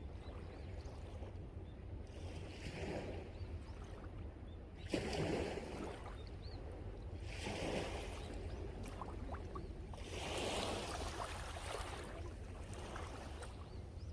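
Sea waves breaking and washing up the shore, four swells a few seconds apart with the strongest about five seconds in, over a steady low rumble of wind on the microphone.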